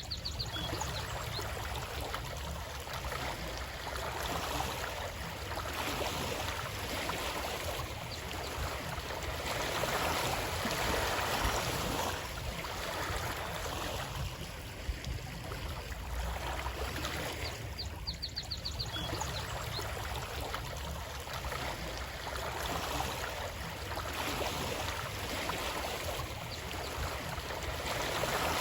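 Water of a stream flowing steadily, swelling and easing every few seconds. A brief run of rapid high ticks sounds right at the start and again about two-thirds through.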